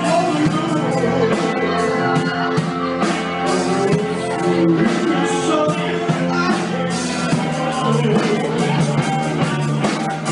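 Soul band playing live, with a voice singing over a steady beat.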